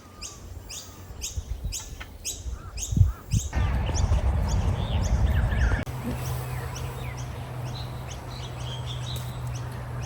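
A bird calling with a run of short, evenly repeated chirps, about two or three a second, over a low wind rumble on the microphone. About a third of the way in the chirping breaks off, and later a low steady hum comes in with only scattered faint chirps.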